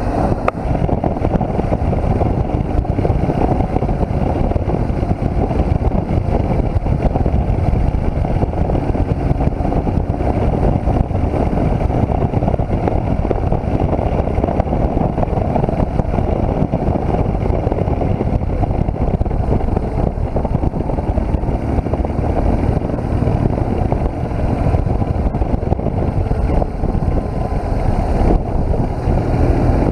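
BMW R1200GS motorcycle riding at a steady pace on a sealed road: the boxer-twin engine and rushing wind make a steady, unbroken noise.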